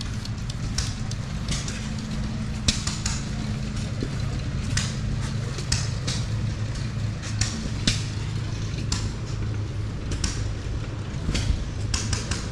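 An engine running steadily with a low, even hum, with many short, irregular crackling ticks over it.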